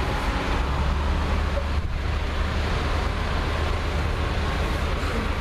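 Tractor engine running with a steady, low drone under a wash of noise.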